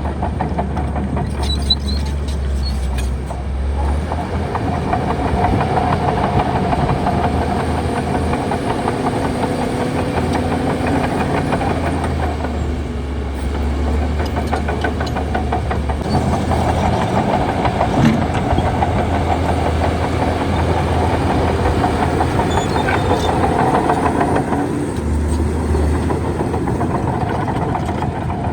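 Shantui DH17C2 bulldozer's diesel engine running steadily. Its note rises and falls as the load changes, with one short knock about 18 seconds in.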